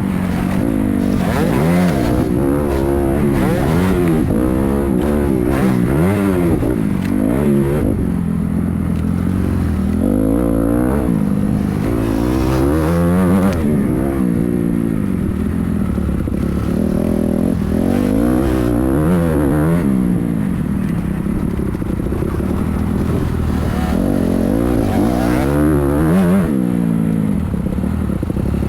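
Motocross dirt bike engines revving hard and easing off again and again, the pitch climbing and dropping every second or two as the bikes ride the track.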